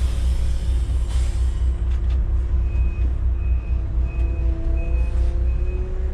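Intercity coach's diesel engine running with a steady low rumble, with two bursts of air-brake hiss near the start. From about two and a half seconds in, the reversing beeper sounds a short high beep about every 0.7 seconds as the coach backs up to manoeuvre.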